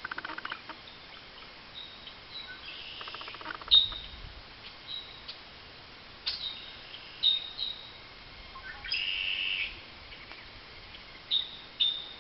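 Eastern bluebirds calling at the nest: short high chirps repeated throughout, with quick rattling notes near the start and about three seconds in, and a harsher buzzy call about nine seconds in.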